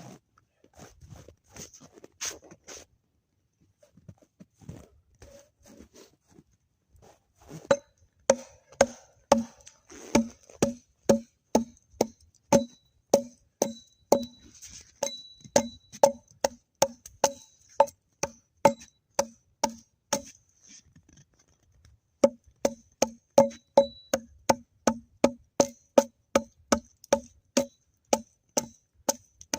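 Repeated sharp knocking strikes on wood, about two a second, each with a short ringing tone. After a few fainter knocks they start in earnest about a quarter of the way in, stop briefly about two-thirds through, then resume.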